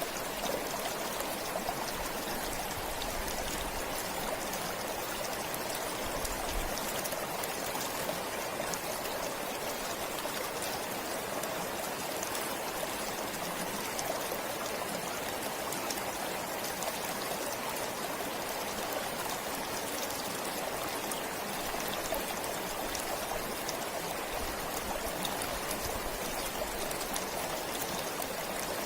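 A forest stream flowing steadily: an even rush of running water with many small splashes.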